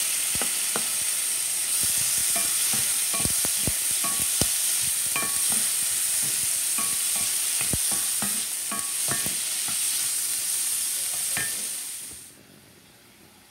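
Chopped tomatoes, onions and green chilies sizzling in a hot skillet while being stirred with a wooden spoon, which knocks and scrapes against the pan many times. The sizzle drops away about a second before the end.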